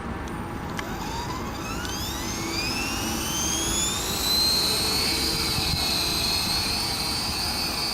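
ESKY Honey Bee King 4 electric RC helicopter's motor and rotor spooling up: a whine that rises in pitch for about three and a half seconds, then holds steady at full head speed. Wind noise rumbles on the microphone underneath.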